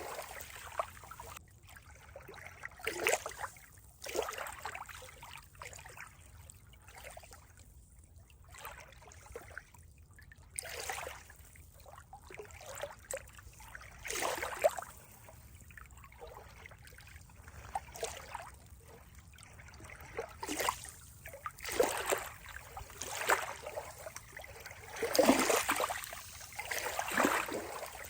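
Water trickling and splashing in irregular surges every second or two, a little louder near the end.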